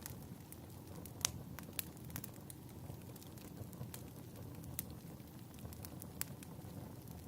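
Fireplace crackling: a low steady rumble of burning with irregular sharp pops and snaps, the loudest about a second in.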